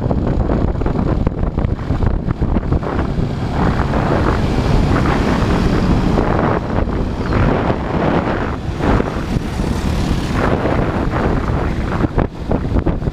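Motorcycle engine running while riding in traffic, with heavy wind buffeting on the microphone; a stretch of stronger hiss fills the middle.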